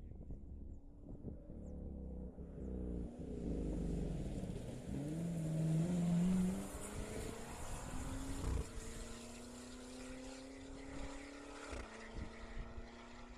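Rally raid car's engine revving up as it drives past, loudest about six seconds in, then running at a steady pitch.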